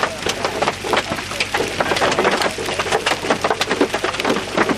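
Torrential rain mixed with hail pelting down: a dense, irregular clatter of hard impacts over a steady rush of rain.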